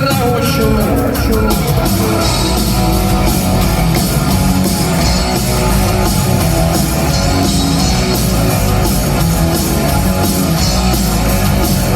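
Rock music without vocals: an instrumental passage with electric guitars over a drum kit.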